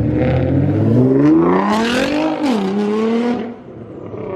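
Car engine accelerating hard: its note climbs for about a second, drops suddenly as it shifts up a gear, then holds briefly and fades away.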